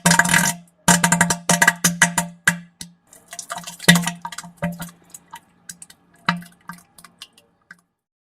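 Wet, sputtering fart sounds: a low buzzing tone broken by rapid crackling pops. The pops are dense and loud at first, then thin out into scattered pops that die away near the end.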